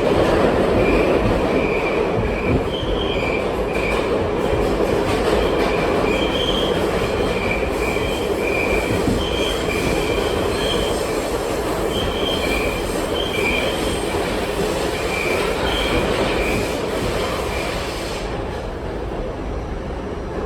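R68 subway car running on the tracks: a steady rumble with short, high-pitched wheel squeals at two pitches that come and go again and again. The sound eases slightly near the end.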